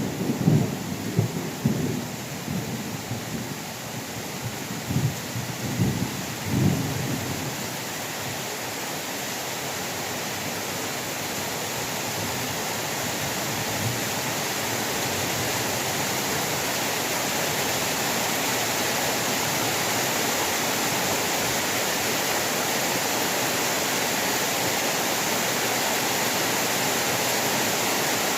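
Heavy rain falling steadily, with a thunder rumble rolling and dying away over the first several seconds. After that there is only the even hiss of the rain, growing slowly a little louder.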